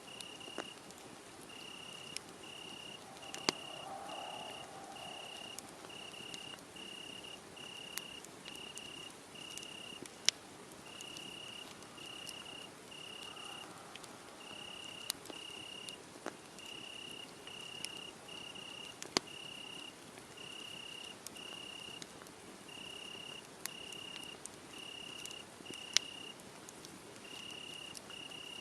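Crickets chirping in a steady, even rhythm, a little under two chirps a second, over a wood fire that crackles with scattered sharp pops, a few of them loud.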